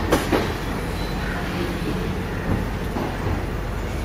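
Passenger train rolling through a station, with a steady rumble from wheels and carriage and two sharp clacks of wheels over rail joints near the start.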